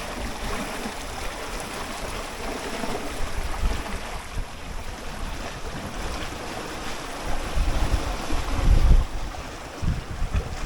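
Water rushing and splashing along the hull of a small sailboat under way, with gusts of wind buffeting the microphone, strongest about eight to nine seconds in.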